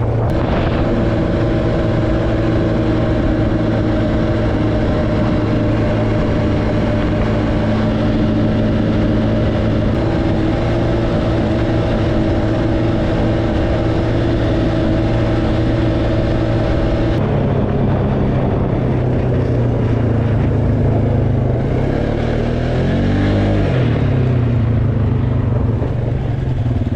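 ATV engine running steadily, its note shifting partway through, then revving up and back down near the end.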